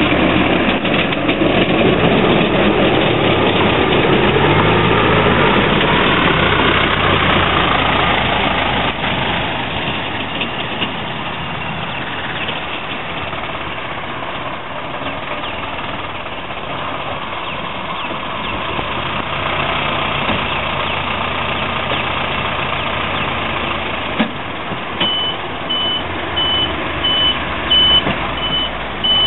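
A heavy truck's diesel engine running, with a reversing beeper starting about 25 seconds in and sounding about twice a second.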